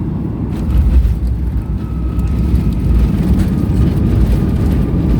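Airliner cabin noise on landing: a heavy rumble with a few knocks sets in about a second in as the wheels touch down and roll on the runway, over the steady noise of the jet engines.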